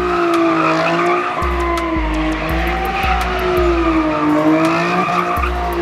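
A car spinning at a street car meet, its tyres squealing in a long, wavering tone over its engine. Music with a heavy bass line pulses underneath.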